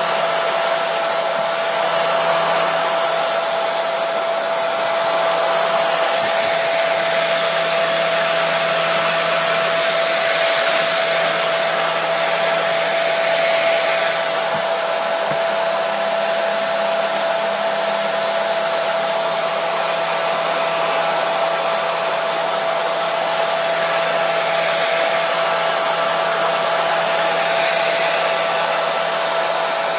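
Electric hair dryer running continuously: a steady rush of air with a constant motor whine.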